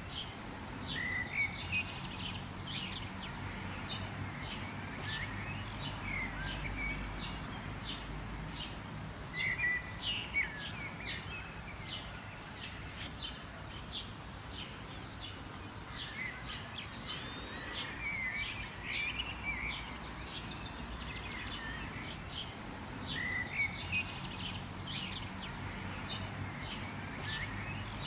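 Several birds chirping and calling in a quick, overlapping chorus of short high notes, over a steady low background noise.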